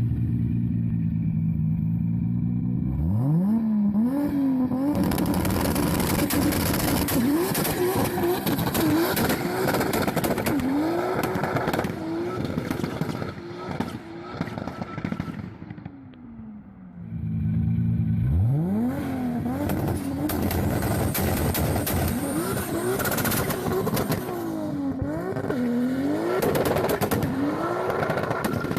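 Toyota Supra MK4's engine revving hard: its pitch sweeps up sharply twice, then rises and falls again and again, with rapid crackling over the top. It drops quiet briefly a little past halfway.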